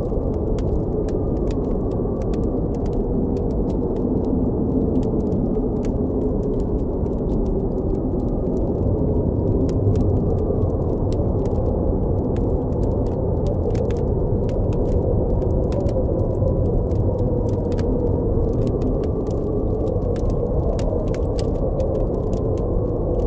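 Strong blizzard wind blowing steadily, with faint tones that slowly waver in pitch, over the frequent small pops and crackles of a campfire burning.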